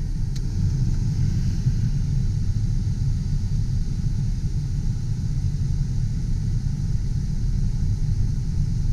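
Steady rush of the cab's heater blower pushing air through the dash vents, over the steady low rumble of the Mazda B4000's 4.0-litre V6 idling.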